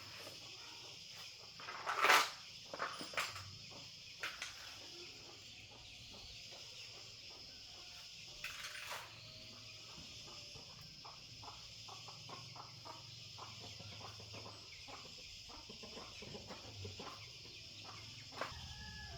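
Steady high-pitched chorus of insects. Scattered clicks and knocks of handling sound over it, with a louder clatter about two seconds in.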